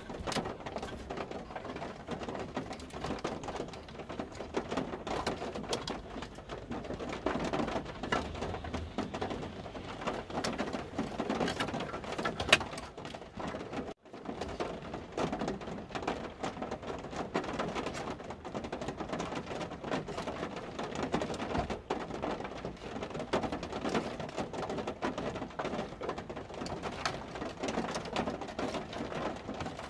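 Rain pattering steadily on a truck's roof and windshield, heard from inside the cab, with one sharp click about twelve seconds in.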